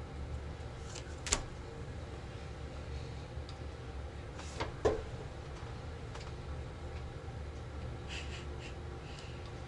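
Playing cards being handled on a table: a sharp click about a second in, a louder double tap near the middle and a few light ticks near the end, over a steady low hum.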